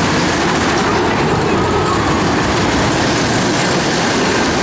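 Steady fairground din with crowd chatter, and a Zamperla Windstorm roller coaster train rolling along its track.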